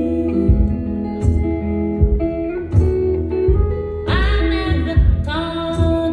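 Live band music: a guitar-led instrumental passage over a steady beat of low thumps, with a bending melodic line, voice or instrument, coming in about four seconds in.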